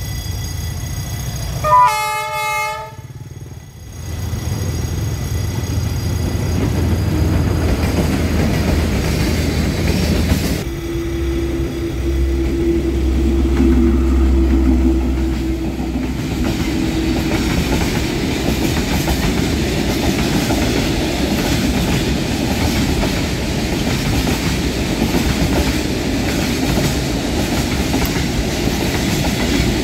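A diesel locomotive gives one short horn blast about two seconds in. Its engine rumble then builds and passes close by, followed by the steady rumble and clatter of freight boxcars rolling over the level crossing.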